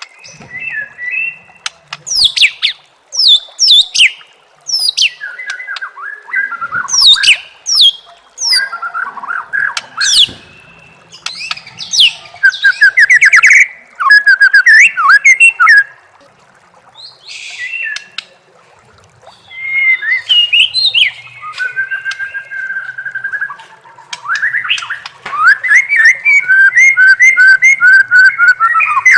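A white-rumped shama (murai batu) singing a loud, varied song: quick phrases of sharp sweeping whistles, chattering trills and rapidly repeated notes, separated by short pauses. Near the end comes a run of evenly spaced repeated notes.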